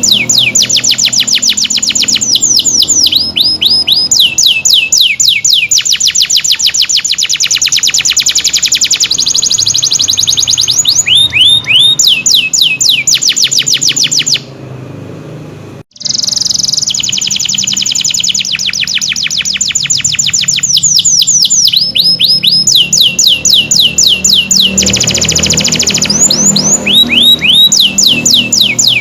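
Domestic canary singing in full song: long runs of fast, rapidly repeated high notes and rolling trills, switching from one tour to the next every second or two. The song breaks off briefly about halfway through, then resumes just as loud.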